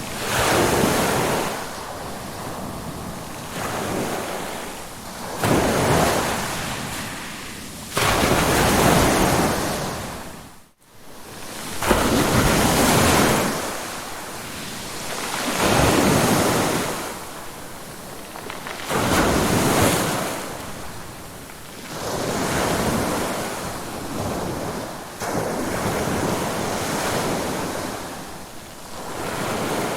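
Ocean waves surging in and washing back, one swell every three or four seconds. About eleven seconds in the sound drops out almost to nothing for a moment, then returns suddenly.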